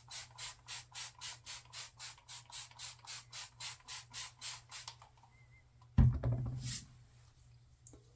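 Wet hands rubbing water over a face in quick, even strokes, about four a second, to reactivate the menthol cooling. A louder thump with a short rush of noise follows about six seconds in.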